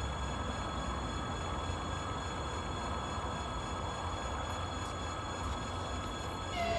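Double-deck passenger train hauled by an EP20 electric locomotive rolling past, a steady rumble of wheels on the rails. A train horn starts sounding just before the end.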